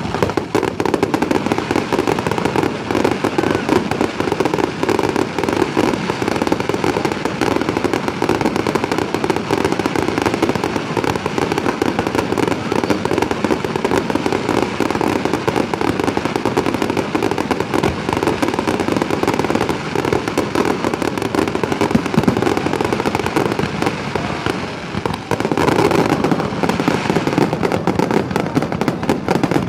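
Fireworks display: a dense, continuous barrage of bursts and crackling, easing briefly about 25 seconds in before picking up again.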